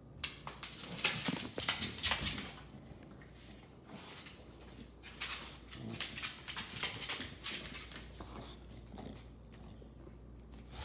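American bulldog close to the microphone making short, irregular breathy and scuffling noises, with no barking. They come thickest over the first two seconds and again in the middle.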